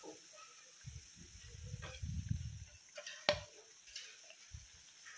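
Battered bottle-gourd pakoras sizzling softly in shallow oil in a nonstick pan, with a plastic slotted spatula scraping and knocking against the pan as they are lifted out; one sharp tap about three seconds in.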